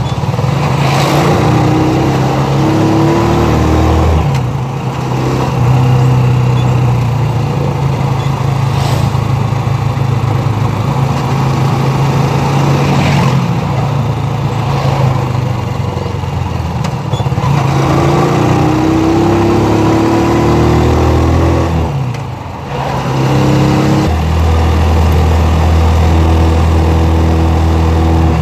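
Honda motorcycle engine of a tricycle (motorcycle with sidecar) running under way. Its pitch rises twice as it speeds up, each time followed by a brief drop, the second one about 22 seconds in.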